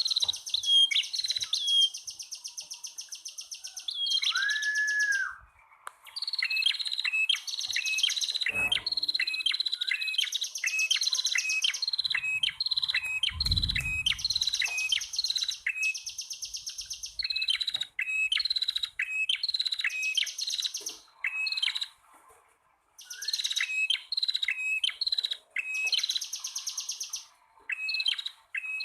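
Male and female prenjak (prinia) calling together: fast, high buzzing trills alternating with runs of sharp, repeated chirps, in bursts separated by short pauses.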